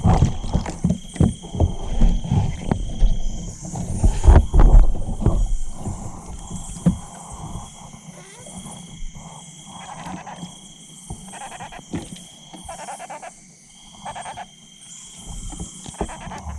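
Animal calls. A high, steady call about a second long repeats every couple of seconds, alongside pulsed lower calls. In the first few seconds, loud knocks and thumps are heard close by.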